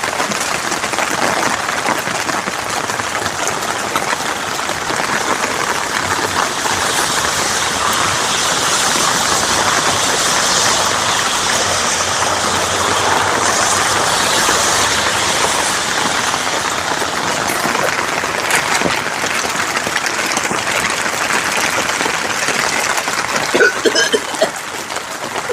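Heavy rain pouring down steadily, a dense even hiss of rain falling on surfaces.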